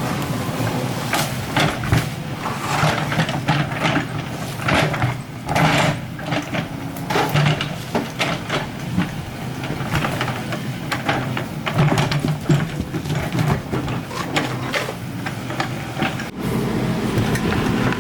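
Excavator's diesel engine running steadily, with frequent irregular knocks and scrapes as it digs.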